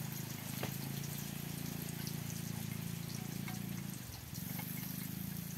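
Spices frying in hot oil in a wok over a wood fire: a steady sizzle with scattered small pops.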